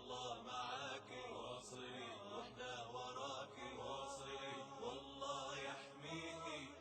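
Chanted vocal music: a voice singing a slow, wavering melodic line.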